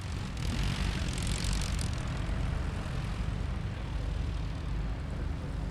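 Groppo Trail light aircraft's propeller engine running steadily, with a brief rushing hiss from about half a second to two seconds in.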